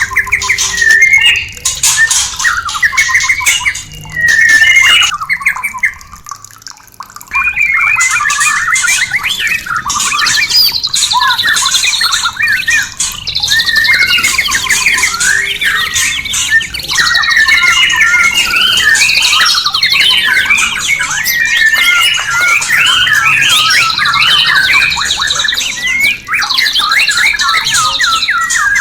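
White-rumped shama (murai batu) singing: a dense, fast run of varied whistled phrases mixed with harsh chattering notes, pausing briefly about six seconds in.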